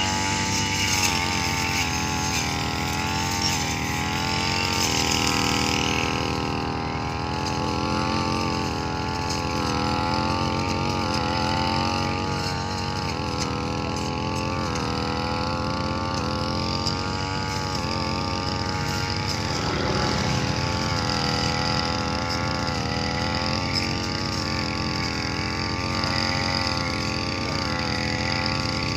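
Heavy vehicle engine running without a break, its revs wavering slightly up and down; about six seconds in a higher hiss above the engine note drops away.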